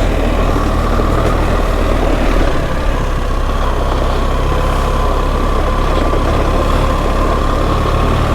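BMW R 1300 GS's 1300 cc boxer-twin engine running steadily at low revs, with a thin steady whine over it.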